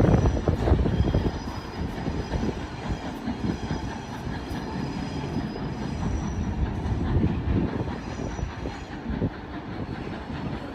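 Heritage passenger train running past on the rails, wheels clattering with a faint high squeal, the sound gradually fading as it moves away.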